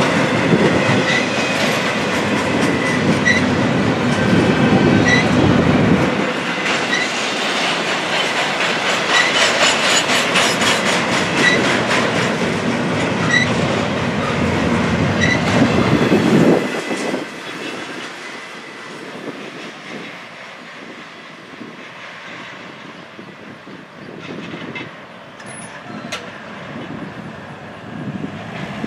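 Double-stacked intermodal container cars of a freight train rolling past, their wheels clattering on the rails. The noise drops off suddenly about 17 seconds in as the last car goes by, leaving a fainter rumble that fades as the train moves away.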